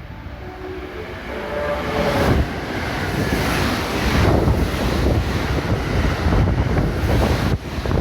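JR West 683 series electric express train passing through the station at speed: a rush of wheel and wind noise that builds and turns loud about two seconds in. The last notes of its melodic music horn sound over it in the first two seconds.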